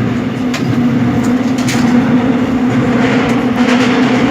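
Seoul Metro Line 7 subway train, trainset 707, running between stations: a steady drone with a constant low hum and a few sharp clicks.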